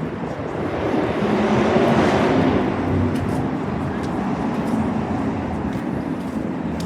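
A motor vehicle driving past close by on the road, its engine and tyre noise rising to a peak about two seconds in and then slowly fading away.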